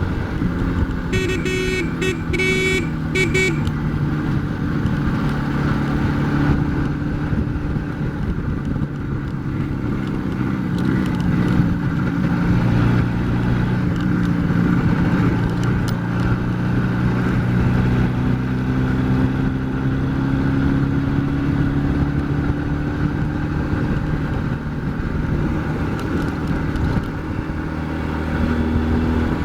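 IZh Jupiter 4 motorcycle's two-stroke twin engine running under way, its pitch rising and falling as the revs change. A horn sounds several short toots about a second in.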